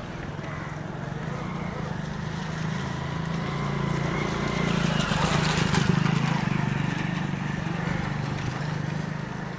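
A vehicle's engine drone passing by, growing louder to a peak about halfway through, then fading.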